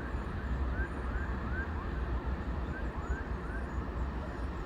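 Steady low rumble of toll-road traffic, with a run of short rising chirps repeating about every half second.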